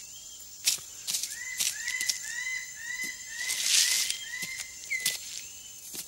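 Rainforest ambience: a bird calling a run of short arched notes, about two a second, over a steady high insect whine, with scattered clicks and rustles from the forest floor.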